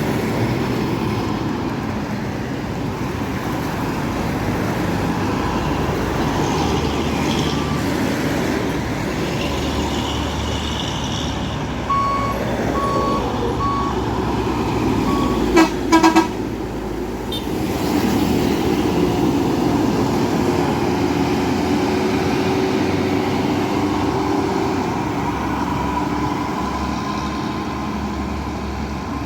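Heavy road traffic with trucks going by, a steady running rumble throughout. A little before halfway, a few short high beeps sound, and about 16 s in a vehicle horn gives three short, loud blasts.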